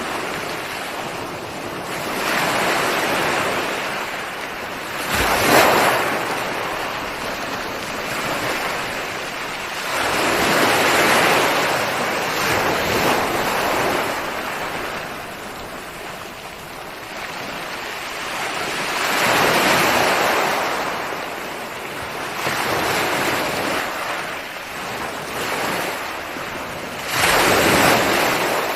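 Ocean waves breaking on a shore, a steady wash of surf that swells and fades as each wave comes in, about every five to eight seconds, with a sharper crash about five seconds in and another near the end.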